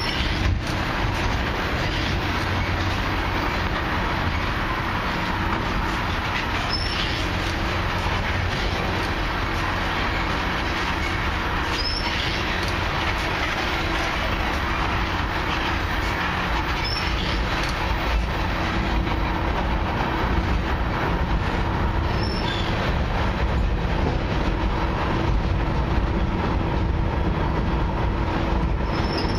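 Freight cars of a long mixed freight train rolling steadily past: a continuous rumble of steel wheels on the rails. Brief high squeals come about every five seconds.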